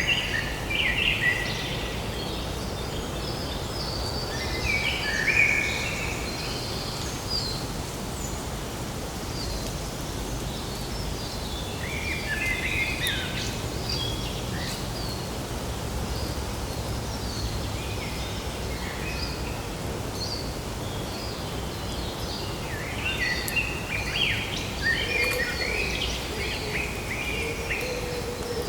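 Birds chirping and calling in scattered bursts of short, high chirps over a steady background hum of ambient noise, with a lower call near the end.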